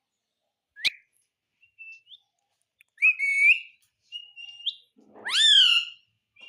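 Pet ringneck parrot whistling and chirping in short separate calls: a sharp rising chirp about a second in, a few short chirps, then a longer whistle. Near the end comes its loudest call, a whistle that rises and then falls.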